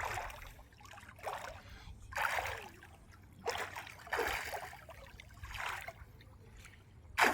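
Water splashing and sloshing in a run of short strokes, about one each second.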